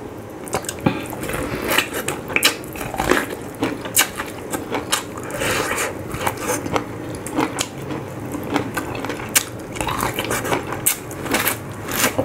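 Close-miked biting and chewing of boiled corn on the cob: irregular sharp clicks and wet mouth sounds as the kernels are bitten off and chewed, starting about half a second in.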